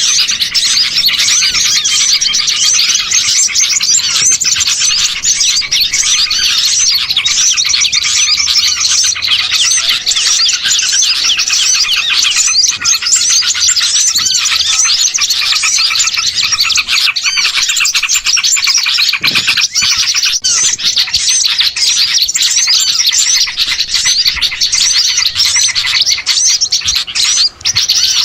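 A dense chorus of many small songbirds chirping and twittering at once, with no let-up: a mixed-species bird-lure recording of small birds calling noisily together.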